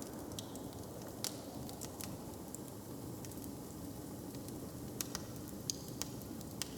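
Wood fire crackling, with scattered sharp pops, several bunched together in the second half, over a steady low rumble.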